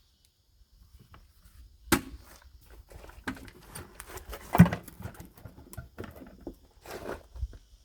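Irregular knocks, clicks and rustling of things being handled by hand, with a sharp knock about two seconds in and the loudest one a little past the middle.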